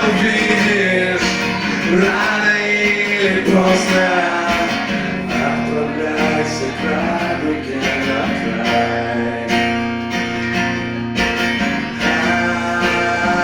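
Live music without words: acoustic guitar strumming chords over a steady bass line, with a gliding melody line over the first few seconds before the chords carry on alone.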